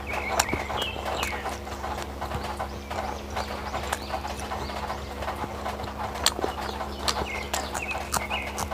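A person chewing and smacking food close to the microphone: an irregular run of wet mouth clicks, over a steady electrical hum.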